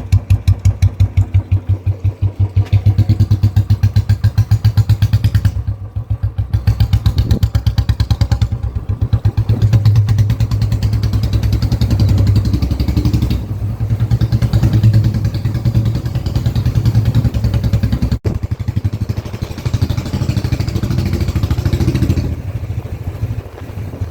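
Royal Enfield Bullet's single-cylinder engine running with an even, deep exhaust thump. The revs rise and fall a few times.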